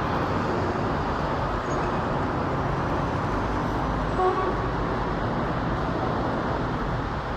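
Steady roar of a Boeing 777-300ER's twin GE90 turbofan engines passing overhead, an even rushing rumble with no clear pitch.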